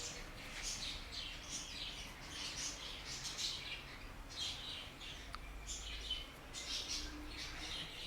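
Small birds chirping, a steady run of short, high calls repeating one after another.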